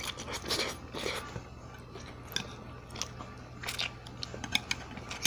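Close-miked eating sounds: crisp nori being bitten and chewed with sushi bake, in irregular crunches and clicks.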